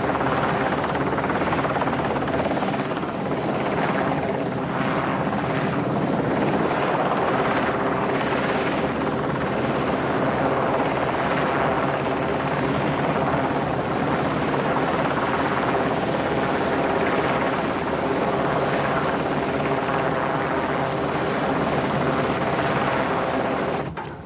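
Loud, steady aircraft engine drone, cutting off abruptly near the end.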